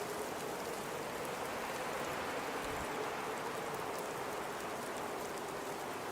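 Steady blizzard wind, a constant even rushing noise with faint light ticks scattered through it.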